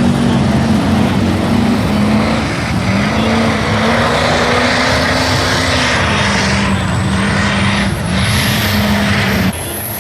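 Diesel truck engine running hard at high revs, its pitch holding steady with small dips and rises, then cutting off abruptly near the end.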